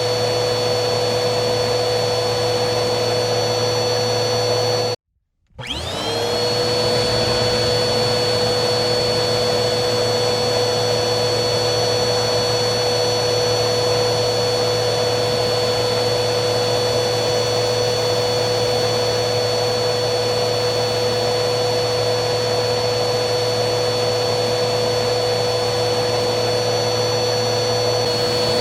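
Vacuum cleaner motor running with a steady whine and airflow hum. About five seconds in it cuts out abruptly for half a second, then starts again, its whine rising over about a second as the motor spins back up to speed.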